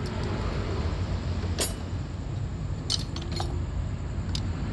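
A few scattered sharp metallic clinks of metal tools and parts being handled during motorcycle repair, over a steady low background rumble.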